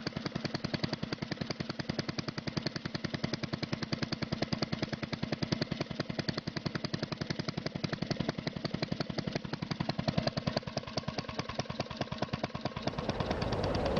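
An engine running with a rapid, even beat of about ten pulses a second, giving way near the end to a steadier, fuller rumble.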